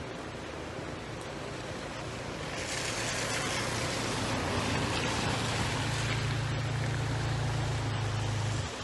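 A motor vehicle's engine running with a steady low hum, under a rushing hiss that swells about two and a half seconds in; the hum grows stronger later on and both cut off suddenly near the end.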